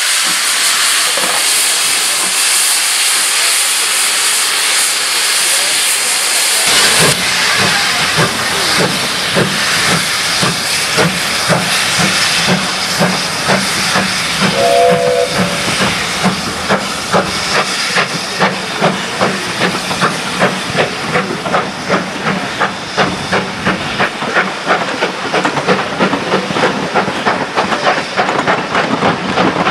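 A 4-6-0 class 5 steam locomotive hissing loudly with steam, then starting away at about seven seconds with regular chuffs from its exhaust that carry on to the end. A short whistle blast sounds about halfway through.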